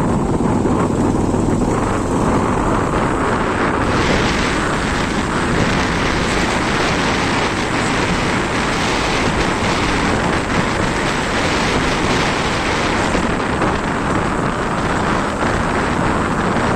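Wind rushing over the microphone with a vehicle running under it; the hiss grows stronger about four seconds in.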